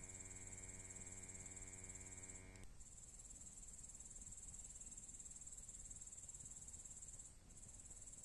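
Insects chirring in a continuous high, even buzz that breaks off briefly twice. A steady low hum with even overtones runs underneath at first and cuts off with a click about two and a half seconds in.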